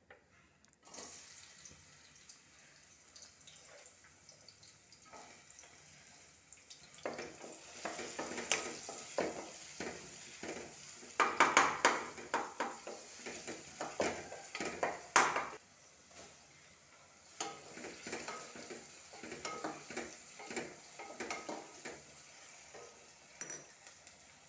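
Chopped onions sizzling in hot oil in an aluminium pressure cooker pan, stirred and scraped with a wooden spatula. The stirring strokes come in irregular spells: they start about a quarter of the way in, are loudest around the middle, and are lighter near the end.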